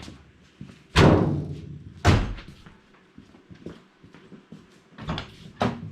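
Two heavy metal slams about a second apart, a Subaru BRAT's hood or doors being shut, followed by a couple of lighter clicks near the end.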